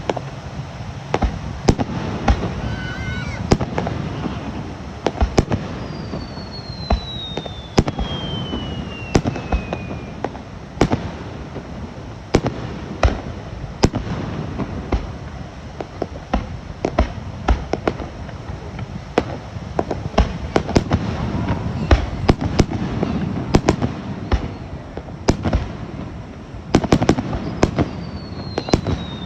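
Fireworks display barrage: a rapid, irregular run of aerial shell bangs and crackles over a low rumble. A long falling whistle sounds about six seconds in and again near the end.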